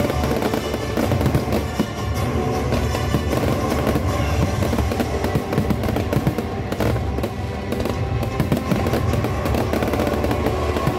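A fireworks display in full swing: a dense run of bangs and crackling shells, heard over music playing from loudspeakers.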